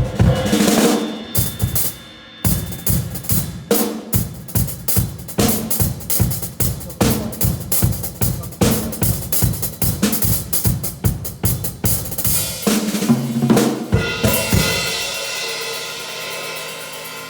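Drum kit played with mallets in a very high-ceilinged room: a long run of quick strokes across the drums, then a cymbal crash about three-quarters of the way through that rings on and slowly fades.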